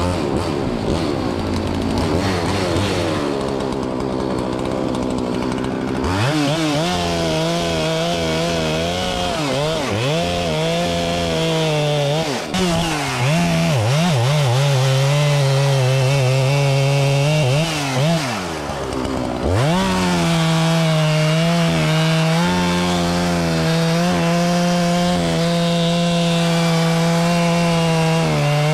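Chainsaw revving up and running at full throttle in a cut, its pitch sagging and recovering under load. The throttle drops off twice before the saw comes back up. For the first few seconds a lower engine note runs before the saw revs up.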